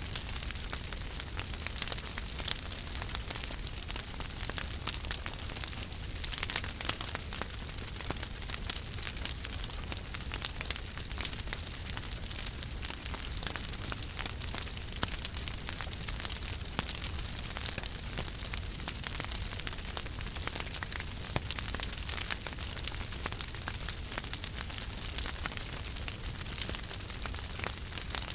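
Wood fire burning in a fireplace: a steady hiss with many small crackles and pops scattered throughout, over a low rumble.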